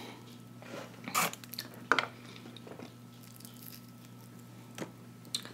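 Close-miked eating sounds: a few short, soft mouth smacks and clicks while chewing, over a faint low steady hum.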